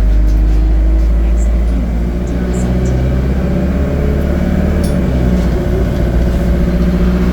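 ADL Enviro 200 bus's engine and Allison automatic gearbox heard on board while the bus is under way. Engine pitch rises early on, holds steady through the middle and climbs again near the end.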